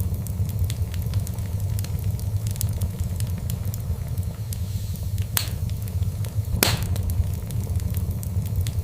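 Fire in a fireplace crackling, with a steady low rumble under frequent small crackles and two louder pops a little past halfway.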